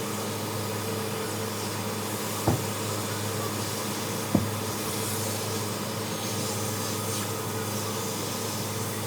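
Vacuum cleaner running with a steady hum while a car interior is cleaned, with two short knocks about two and a half and four and a half seconds in.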